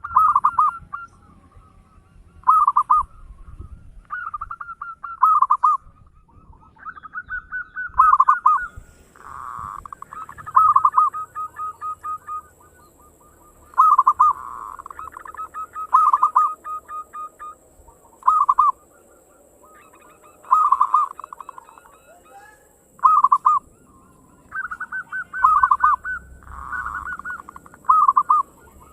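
Zebra dove (perkutut) cooing over and over: each phrase is a quick stuttering run of short notes ending in a coo, repeated every one to three seconds in the fast single-phrase style that keepers call ngayer engkel.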